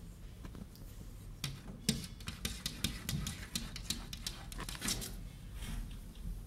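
Rapid light tapping and clicking, a dense run of taps from about a second and a half in until about five seconds, over a low steady hum.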